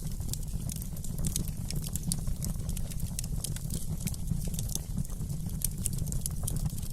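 Fireplace crackling: quick, irregular snaps and ticks of burning wood over a steady low rumble.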